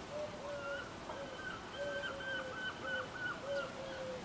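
A bird calling in the background: a quick series of short, repeated notes, each held at one pitch, over a faint steady hiss.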